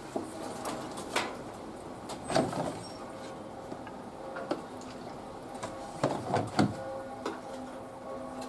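Panasonic front-loading washing machine starting its wool cycle: a steady electrical hum with irregular clicks and soft thumps, the loudest clusters about two and a half seconds and six seconds in.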